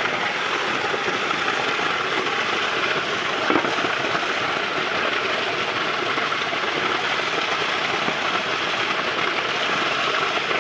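Heavy rain falling in a steady, even downpour, with one brief knock about three and a half seconds in.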